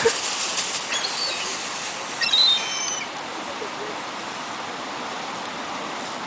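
A few short, high-pitched bird calls between about one and three seconds in, over a steady rushing hiss.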